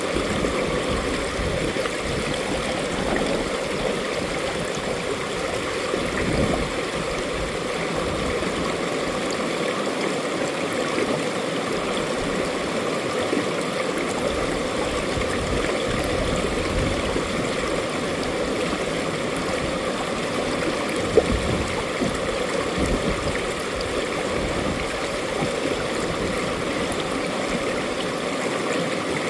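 Mountain valley stream flowing steadily over rocks, a continuous rushing and gurgling of water with one brief splash about 21 seconds in.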